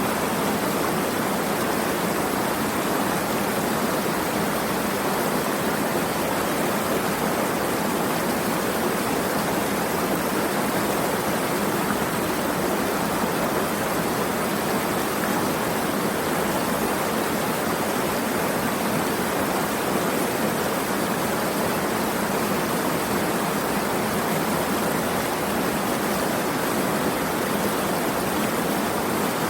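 Flowing water rushing steadily and evenly, with no drops, splashes or changes standing out.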